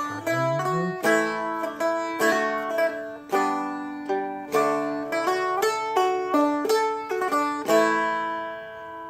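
Seagull Merlin M4 four-string being played: a melody of picked notes mixed with full strummed chords. A last strummed chord near the end is left to ring out and fade.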